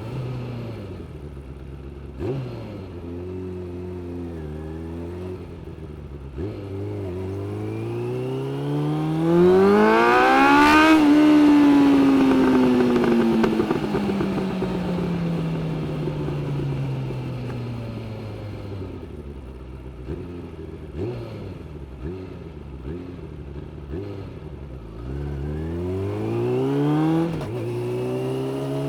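Suzuki GSX600F inline-four motorcycle engine, heard from the rider's seat. It runs low at first, then revs up hard and climbs steeply to a loud peak about ten seconds in. The note then falls slowly over several seconds as the bike slows in gear, and near the end it accelerates again, with a brief break in the rising note as it shifts gear.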